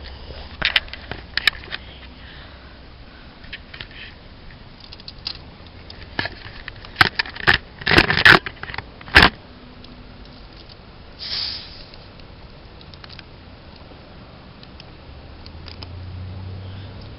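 Handling noises from setting up Mentos and a plastic Diet Pepsi bottle: scattered clicks, knocks and scraping, with a cluster of loud sharp knocks about eight to nine seconds in and a brief hiss a couple of seconds later.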